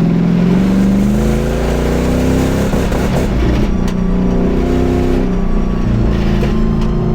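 Mercedes E500's 5.0 L V8 running loud through an exhaust with no muffler or resonator, revving under acceleration: the pitch rises for the first couple of seconds, then holds roughly steady. The transmission is not upshifting, which the driver suspects is limp mode.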